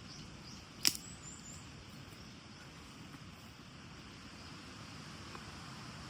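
Steady outdoor background hiss with one sharp click about a second in, followed by a few faint high chirps.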